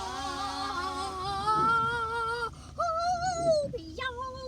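Voices singing long, wavering held notes with no words, one note sliding up to the next. A second, lower voice sings along for the first second.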